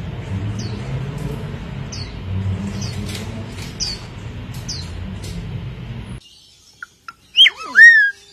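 A warbling white-eye gives short, high chirps about once a second over a low rumbling background. About six seconds in this cuts out, and a palm cockatoo gives loud swooping whistles that rise and fall in pitch near the end, the loudest sound here.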